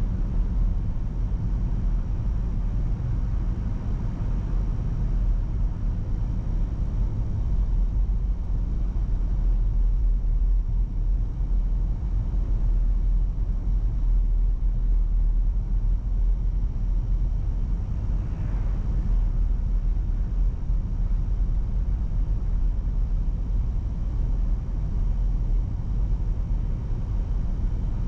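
Steady low rumble of a car driving: road and engine noise that holds at an even level throughout.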